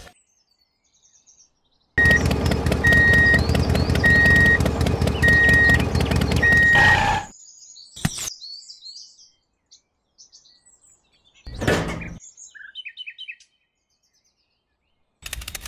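A loud, rapidly rattling mechanical running noise with a high beep repeated five times at even spacing starts about two seconds in and stops abruptly after about five seconds. It is followed by scattered short bird chirps.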